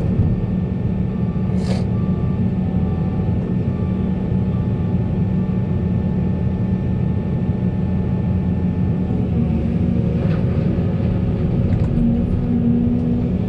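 Heavy diesel earthmoving machinery running steadily with a low, even drone. A single sharp knock comes about two seconds in, and a higher tone joins the engine note near the end.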